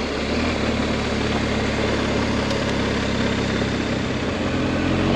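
BMW adventure motorcycle's engine running at a steady low speed under way, with a steady rush of wind and tyre noise on a gravel road. The engine note shifts slightly about four and a half seconds in.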